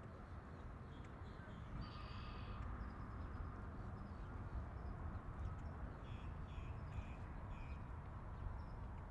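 Faint outdoor ambience: a steady low rumble with distant birds calling, a short burst about two seconds in and a run of four or five short calls around six to seven seconds.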